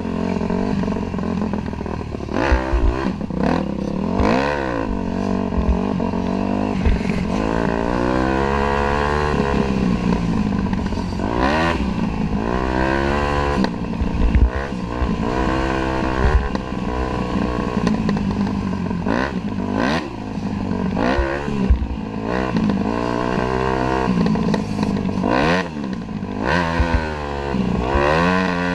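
Dirt bike engine running under way, revving up and falling back over and over, its pitch rising and dropping every second or two, with scattered knocks and clatter.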